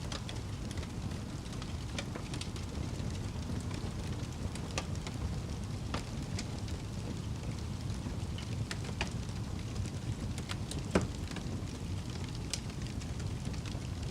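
Wood fire burning in a fireplace: a steady low rumble of flames with scattered sharp crackles and pops, the loudest a single crack about eleven seconds in.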